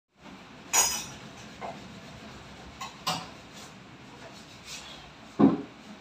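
Wooden sliding cabinet doors being pushed along their track by hand, with three sharp wooden knocks, about a second in, around three seconds in and near the end, and lighter clicks between.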